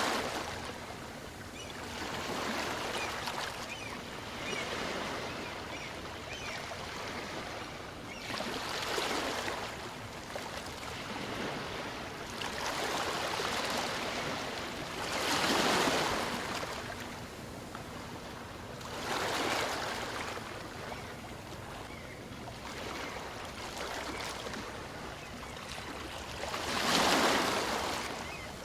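Small waves on a calm sea washing in and drawing back on a beach. Each surge swells and fades every few seconds, over a steady rush of water, and the loudest comes near the end.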